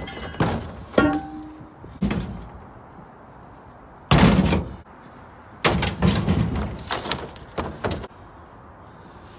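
Scrap metal car parts thrown onto a pile in a pickup bed: a series of clanks at irregular intervals, some ringing briefly, the loudest crash about four seconds in and a quick run of clanks from about five and a half to eight seconds.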